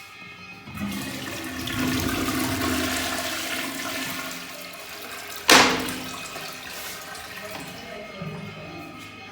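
Toilet flushing: a rush of water that builds about a second in and slowly dies away, with one sharp, loud knock about halfway through.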